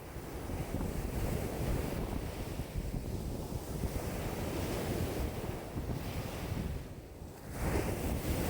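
Wind-driven waves on a lake washing and breaking in a steady wash that swells and eases, with gusts of strong wind buffeting the microphone. The wash dips briefly and surges again near the end.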